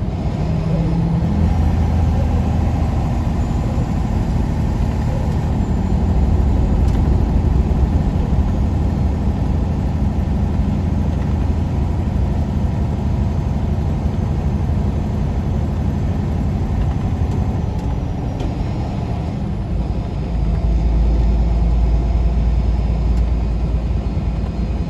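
Semi truck's diesel engine running under way with road noise, a steady low drone that turns deeper and louder about twenty seconds in.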